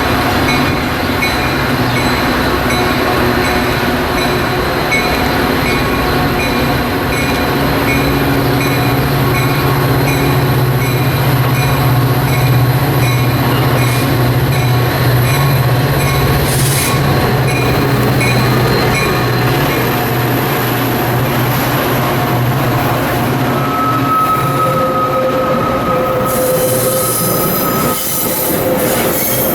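Metra diesel-hauled commuter train moving past at close range, its locomotive engine running with a steady low hum. Several seconds before the end, the wheels start squealing in high, drawn-out tones.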